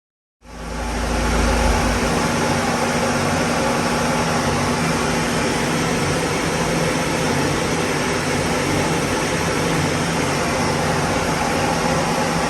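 Car running at a steady engine speed on a rolling road, with no revving, together with a steady rush of fan-like noise. The sound comes in suddenly after an edit, with a deep rumble in the first second or two.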